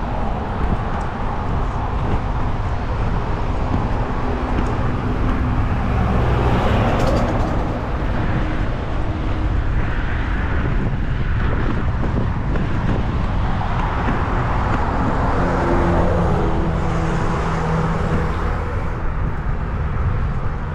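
Road traffic passing while cycling, with a heavy low wind rumble on the microphone; vehicles swell past several times.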